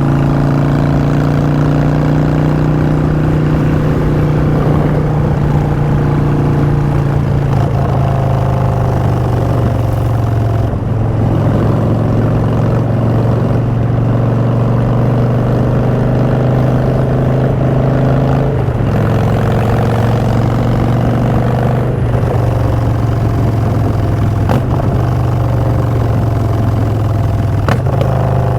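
Harley-Davidson Street Bob's Twin Cam V-twin running through Vance & Hines Short Shots exhaust while riding. The engine note climbs under throttle and drops back twice, about a third and about two-thirds of the way in, as gears are shifted.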